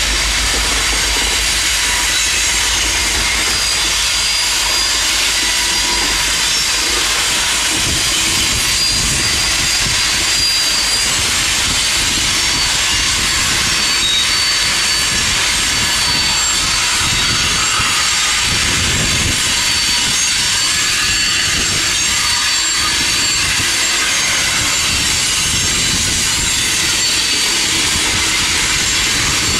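Freight train rolling past: a steady rushing of wheels on rail with thin high-pitched wheel squeal. From about eight seconds in, the wheels knock unevenly over rail joints.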